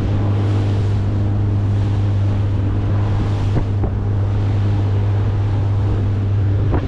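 Boat motor running at a steady speed as the boat moves to a new spot, with wind buffeting the microphone. A couple of faint knocks about three and a half seconds in.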